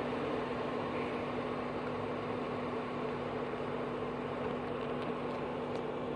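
Steady low rumble and hum of a train moving off beyond the grade crossing, fading slightly.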